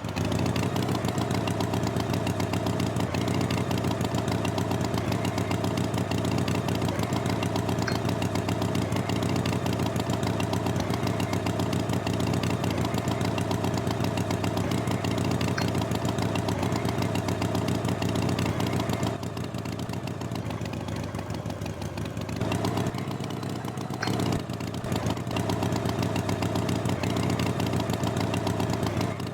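Tractor engine running steadily with a fast, even chug. It drops quieter for a few seconds about two-thirds of the way through, then picks up again.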